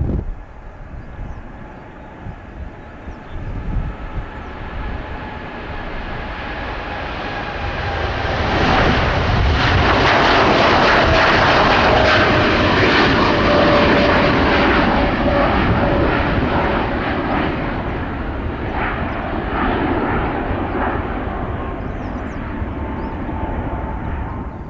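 Boeing 787-8 with GEnx-1B turbofans departing at takeoff power: a jet rumble that builds, peaks about ten seconds in as the airliner passes, then fades, with the engine whine sliding down in pitch as it goes by.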